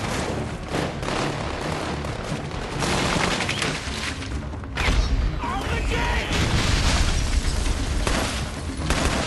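Battle-scene sound mix of sustained gunfire and heavy low booms, with scattered shouting.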